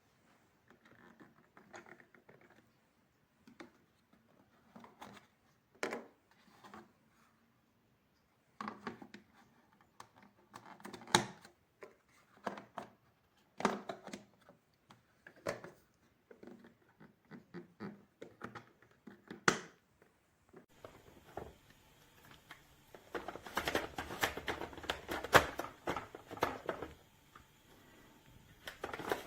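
Objects being handled at close range: scattered sharp clicks and knocks with light rustling between them, then a dense run of clicking and clattering near the end.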